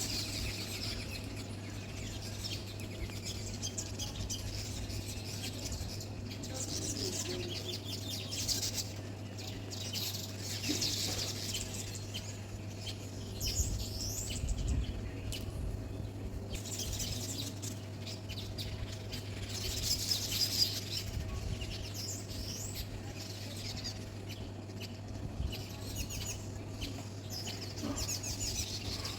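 Small birds chirping in repeated bursts of quick high chirps that come and go throughout, over a steady low hum.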